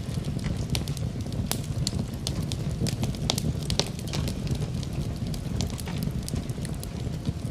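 Wood fire burning in a fireplace, crackling with frequent sharp, irregular pops over a low steady rumble of the flames.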